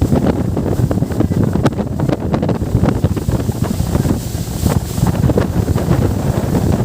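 Wind buffeting the microphone on a moving boat: a loud, steady low rumble broken by many irregular gusty thumps, with water noise from the boat's passage underneath.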